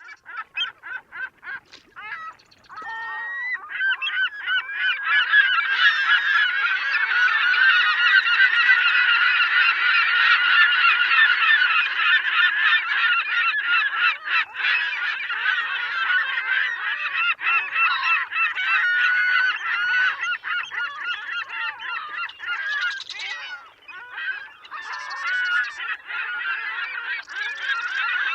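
A flock of geese honking: a few scattered honks at first, then from about four seconds in many birds calling at once in a dense, continuous chorus.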